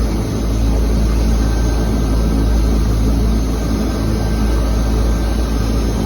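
A seaplane's twin turboprop engines running at a steady drone, a deep rumble with a constant engine hum on top and no change in pitch.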